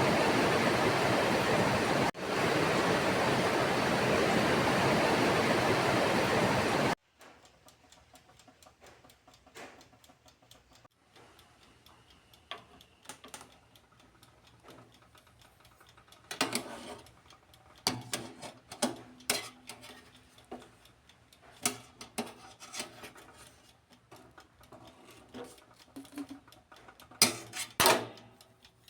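Steady, heavy rain hiss that cuts off suddenly about seven seconds in, followed by a quiet stretch with scattered light clicks and knocks.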